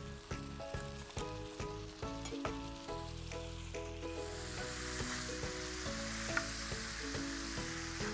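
Quail pieces sizzling in a spiced masala in a wide iron pan. The sizzle grows to a steady hiss about four seconds in, under background music of short melodic notes over a bass line.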